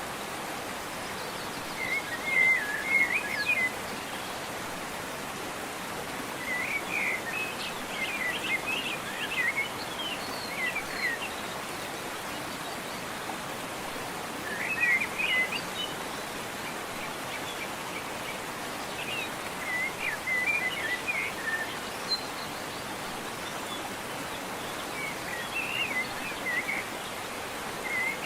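Steady rush of a waterfall, with a songbird singing short twittering phrases that recur every few seconds.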